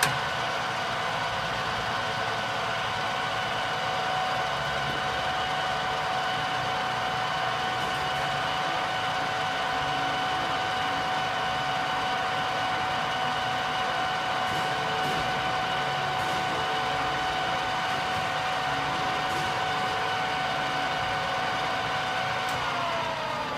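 Ibarmia 1B35G geared head drill press running under power, its gearbox and motor giving a steady whine over a mechanical hum. About a second before the end the whine falls in pitch as the machine is switched off and spins down.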